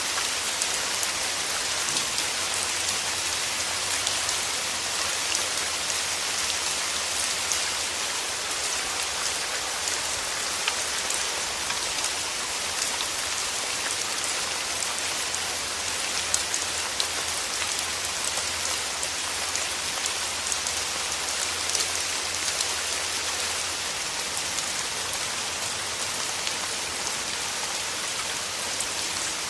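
Steady rain: a dense, even hiss of falling drops with many small individual drop ticks, unchanging throughout.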